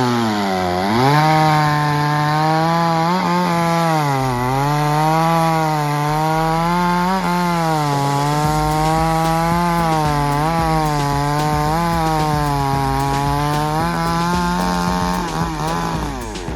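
Two-stroke chainsaw cutting wood, its engine pitch repeatedly sagging and recovering as the chain bites under load.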